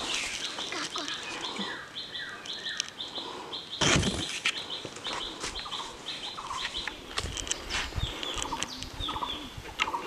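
Forest birds calling: a rapid, evenly repeated series of short high chirps, with descending whistled notes in between. A single loud thump about four seconds in, and low footfall knocks near the end.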